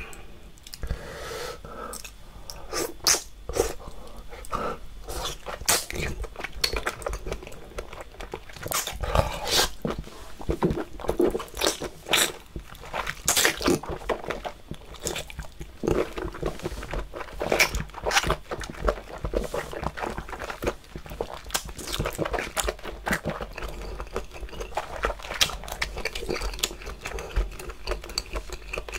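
Close-miked chewing of sauce-dipped octopus: a chewy, wet stream of many irregular sharp mouth smacks and clicks.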